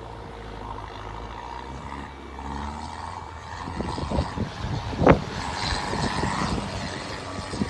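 Off-road 4x4's engine running as it drives across soft sand, growing a little louder partway through. A few sharp knocks land near the middle, the loudest about five seconds in.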